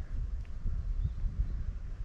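Wind buffeting the microphone: an uneven low rumble that gusts up and down.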